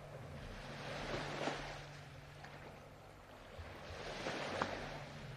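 Soft recorded ocean surf: waves swelling and washing back, rising about a second in and again near four seconds.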